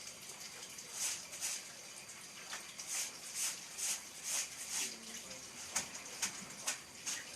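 Munia finch giving a run of short, high-pitched calls, about two a second.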